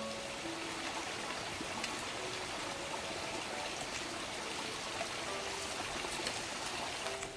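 Steady rush of running water, with a few faint short tones over it.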